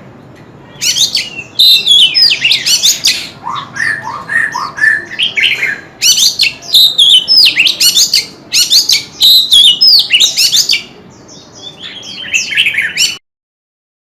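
White-rumped shama singing a long, rapid run of varied whistled and sharp notes, many sweeping down in pitch, in bursts separated by short pauses. The song cuts off abruptly about a second before the end.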